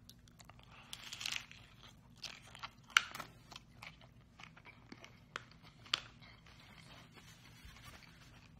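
A person biting into and chewing a crisp tostada shell, giving irregular crunching crackles. The sharpest crunches come about three and six seconds in.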